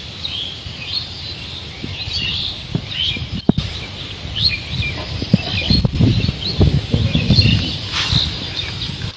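Small birds chirping over and over, with irregular low thumps and rustles mixed in, heaviest in the second half.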